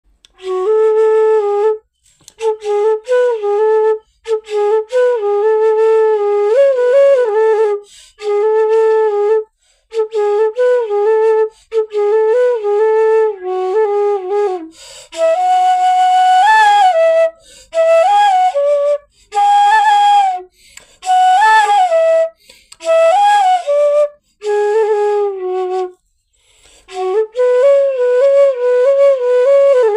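Solo flute playing a song melody in short phrases separated by brief pauses, with no accompaniment and a dry sound without echo.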